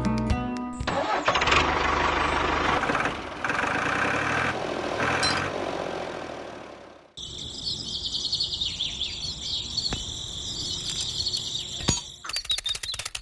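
Mini tractor model's motor running with a steady noisy hum. About halfway through the sound cuts and changes to a thinner running sound with a high whine, then a few clicks near the end.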